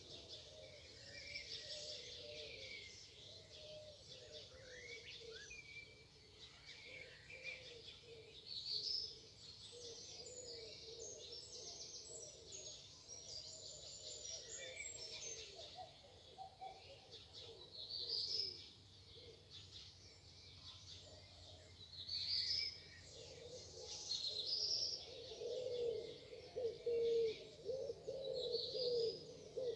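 Morning bird chorus: several birds singing and chirping over each other, with short high phrases repeating every few seconds. A lower warbling call grows louder in the last few seconds.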